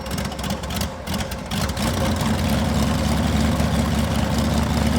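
Rotec R2800 seven-cylinder radial aircraft engine being started for the first time: uneven cranking and firing for the first second or so, then it catches quickly and runs steadily.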